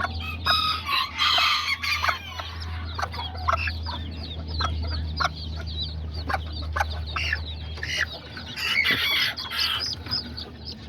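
Kikiriki bantam chickens: chicks peeping and hens clucking, with a rooster crowing twice, about half a second in and again near the end.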